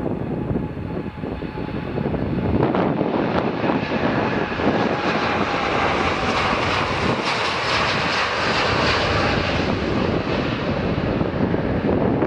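Jet airliner passing close by, its engine noise swelling about two seconds in, the high hiss strongest midway, then easing slightly.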